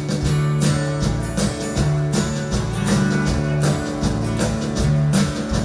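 Live country band playing an instrumental song intro: electric guitar, bass and drums in a steady rhythm.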